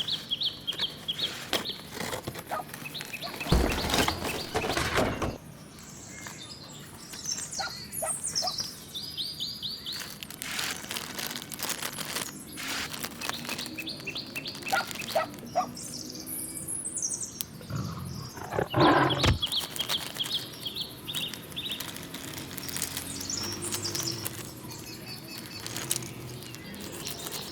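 Birds chirping and calling in short, varied phrases, with scattered sharp knocks and clicks.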